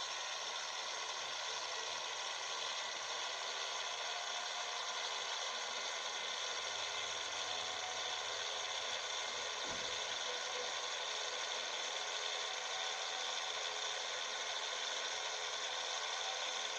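Steady running noise of a Scania 111 truck heard from inside the cab: its straight-six diesel engine with a constant hum and rattle, and a single low thump about ten seconds in.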